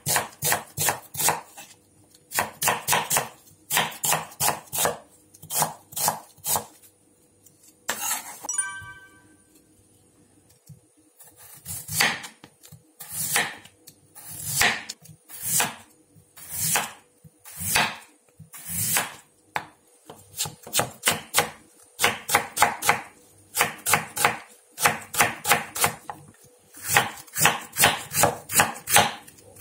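Kitchen knife chopping onion and then Korean radish on a wooden cutting board: quick runs of knife strokes, a short pause, then slower single cuts about one a second as the radish is sliced into rounds, and fast runs again in the last third as the slices are cut into matchsticks.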